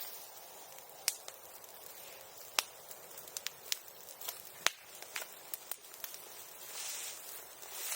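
Bonfire crackling, with scattered sharp pops roughly a second apart over a faint hiss. A louder hissing stretch builds near the end.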